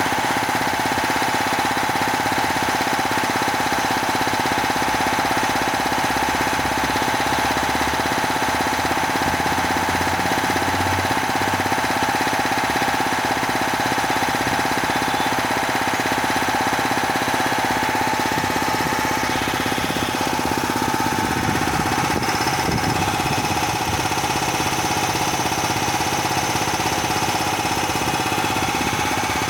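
Bauer 330-bar high-pressure compressor running steadily: a constant mechanical drone with a steady whine over it.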